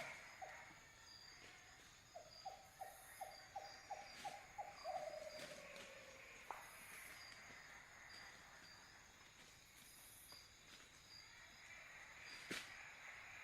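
Faint night insect chorus: crickets chirping steadily at a high pitch over a soft hiss. About two seconds in, an animal calls a run of about eight short, quickening notes that end in a falling slur, and a single sharp click comes near the end.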